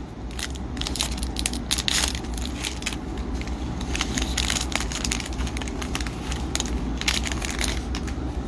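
A hockey card pack's wrapper being crinkled and torn open, a dense run of irregular crackling.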